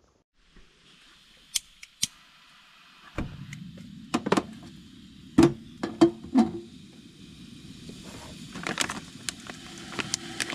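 Metal cookware and utensils clinking and clattering in a string of sharp knocks, loudest a few seconds in, over a steady low rushing noise that starts abruptly about three seconds in.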